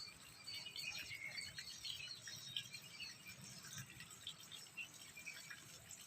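Faint, scattered high chirps over a quiet outdoor background.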